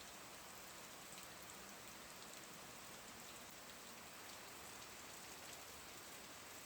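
Steady rain falling, heard faintly as a soft even hiss with scattered drop ticks.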